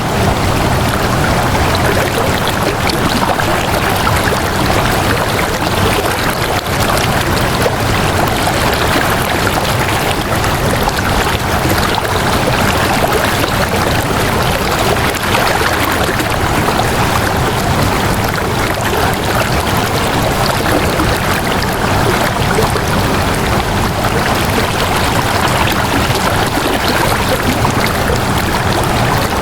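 Steady rush of flowing water, an even noise with no breaks or changes.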